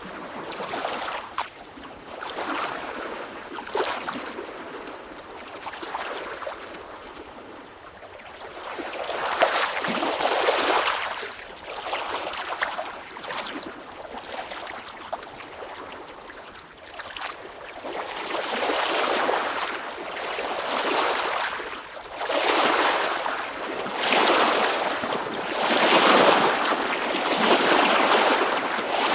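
Water washing and sloshing in repeated swells a few seconds apart, each rising and falling away, like small waves.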